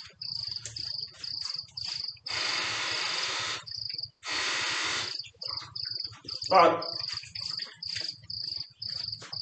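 A cricket chirping steadily, about two short high chirps a second. Two longer rushes of hiss come a couple of seconds in and again around four to five seconds, and a short, louder pitched sound about six and a half seconds in.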